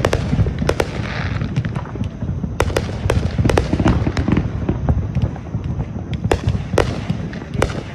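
Fireworks going off in quick succession: an irregular string of sharp bangs and cracks over a continuous low rumble.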